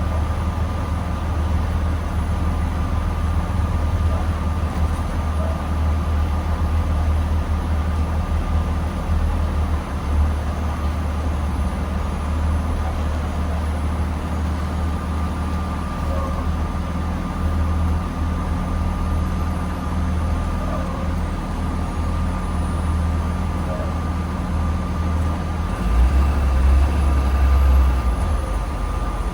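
2020 Blue Bird Vision school bus running down the road, heard from inside: a steady low engine drone with road noise and a thin steady whine above it. The low drone swells louder for a couple of seconds near the end.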